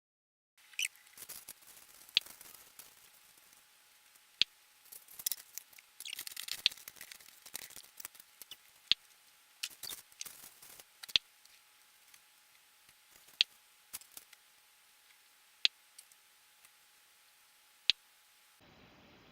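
Small sharp clicks recurring evenly about every two seconds, with softer scattered ticks and rustling between them.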